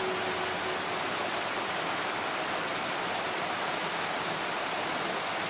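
A 15 m waterfall rushing steadily into its pool, an even noise of falling water.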